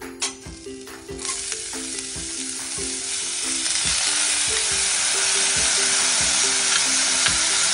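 Chopped onions hitting hot oil in a stainless steel pan and sizzling, the sizzle starting about a second in and growing louder, with a spatula stirring them. Soft background music with a repeating run of notes plays throughout.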